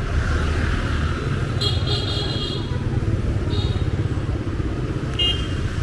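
Riding a motorbike through city traffic: a steady low rumble of engines and road noise, with short, high-pitched horn beeps three times, the longest about two seconds in, a brief one near the middle and another near the end.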